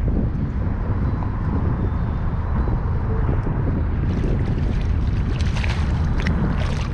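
Steady wind buffeting the microphone over open water, a dense low rushing, with a run of sharp crackles and splashes in the last few seconds.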